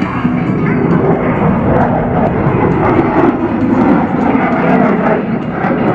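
Boeing F/A-18 Super Hornet's twin jet engines flying past, a loud steady rushing noise.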